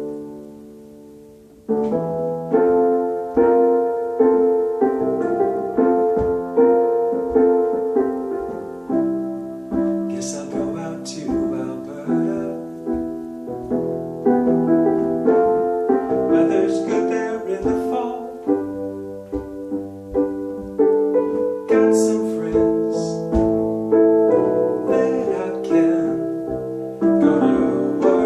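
Piano playing an instrumental break between sung verses, in struck chords and a melody that die away after each attack. It fades to a short lull at the start, then picks up again about two seconds in.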